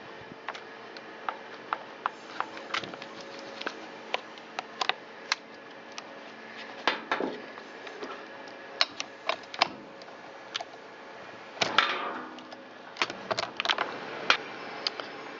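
Irregular sharp clicks and light knocks of hand tools on a chainsaw as its spark plug is taken out for inspection, with a longer scraping rattle about seven seconds in and again near twelve seconds.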